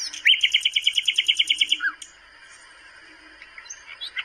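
Birds singing: a fast, evenly pulsed trill lasting about a second and a half, then scattered short chirps near the end.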